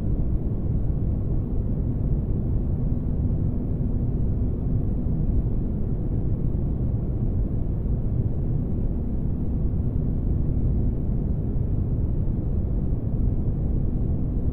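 Spaceship ambience: a steady, deep rumbling noise like a starship's engine room, with a faint steady hum that drops out for a moment near the end.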